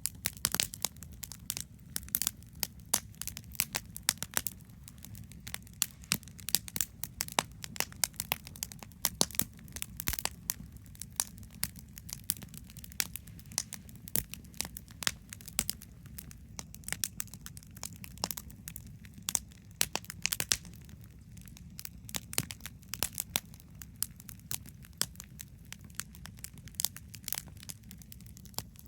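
Wood campfire crackling, with many sharp pops coming at irregular intervals over a low steady rumble.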